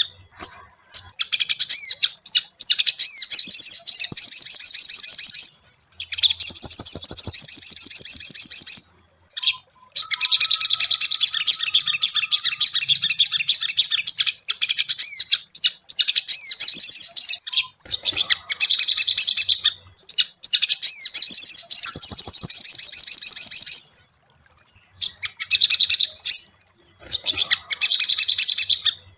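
Little spiderhunter (sogok ontong) singing: long, rapid runs of high-pitched chirps lasting several seconds at a time, broken by short pauses.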